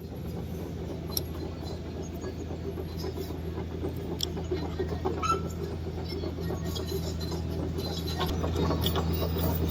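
Heavy diesel engine running steadily, growing slowly louder, with a few faint clicks over it.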